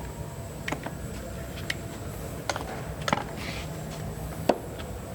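Scattered sharp clicks and knocks of hand tools on engine parts, about five in all, the loudest about four and a half seconds in, over a steady low hum.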